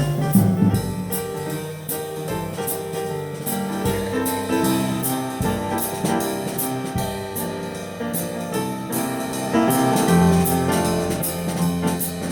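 Jazz instrumental break: piano chords over a drum kit keeping a steady cymbal beat, with a bass line.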